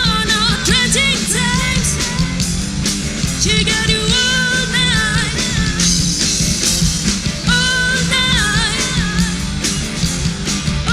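Rock music: a band playing with a sung melody over drums and guitar.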